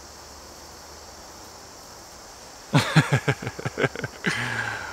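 Steady chirring of crickets. Near the end, a quick run of about seven loud, sharp scratching or tapping sounds, then a softer rustle.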